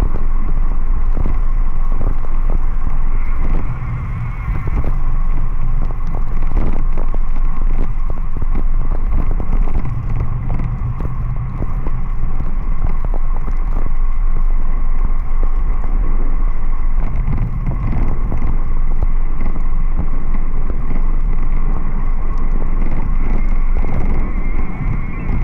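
Steady wind rumble on the microphone with road noise while riding, and a faint steady whine over it.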